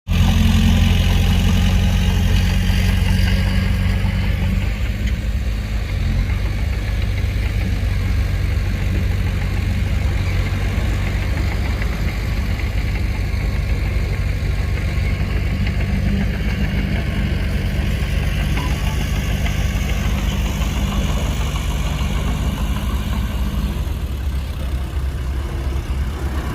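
Heavy diesel engine of earthmoving equipment running steadily at low revs, a deep even hum that shifts slightly in tone near the end.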